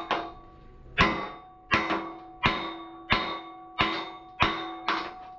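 Hammer striking steel about eight times, roughly one blow every 0.7 s, each blow leaving the metal ringing before it dies away.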